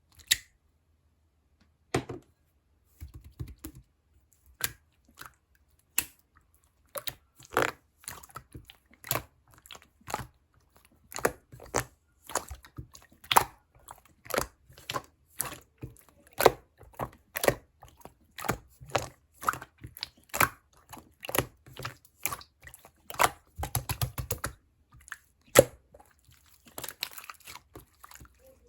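Clear slime being squeezed and pressed by hand, making sharp popping and clicking sounds: a few scattered pops at first, then about two a second from about a quarter of the way in.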